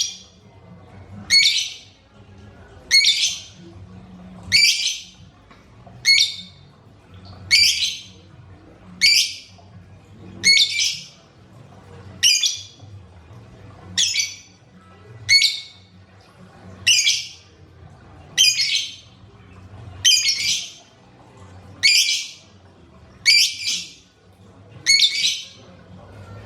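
Lovebird giving short, shrill squawking calls, one about every second and a half in a steady, regular series.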